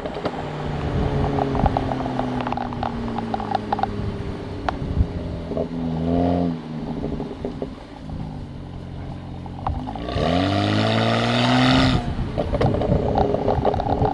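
BMW N54 twin-turbo straight-six, running through catless downpipes and the stock catback, being revved and let fall back. Its pitch sinks after a rev, then comes a short blip, then a longer rev that climbs and drops off sharply. As the revs fall, the exhaust crackles and pops in the overrun burble from an MHD tune set to aggressive.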